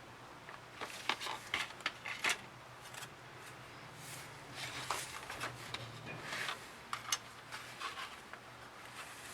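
Irregular light clicks, taps and short scrapes of hobby tools and plastic kit parts being handled on a workbench.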